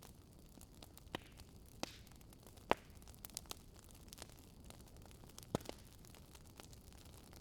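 Wood fire in a fireplace crackling: scattered sharp pops and snaps of burning firewood, the loudest about a third of the way in and again past the middle, over a low steady hiss.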